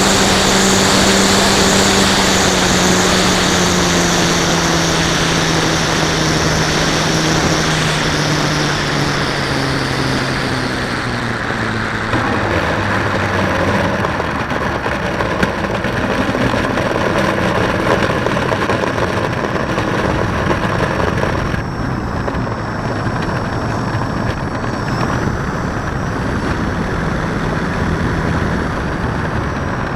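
Radio-controlled model plane's electric motor and propeller whining in flight, the pitch dropping steadily over about the first twelve seconds, then settling into a steady rushing noise.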